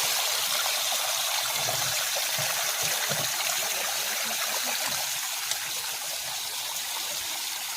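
Water running in a steady stream out of a full water tank, a little softer near the end.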